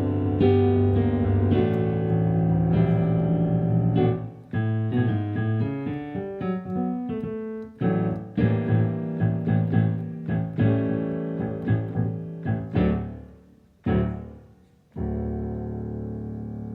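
Solo piano playing a dramatic passage of quick struck notes and chords with sudden swells and drops, closing on a final low chord that is held and then fades.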